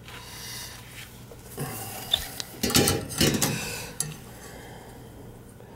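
Light metallic clinks and handling noises from small parts and hand tools on a boiler gas valve, with a sharp click about two seconds in and a brief scraping rustle about a second later.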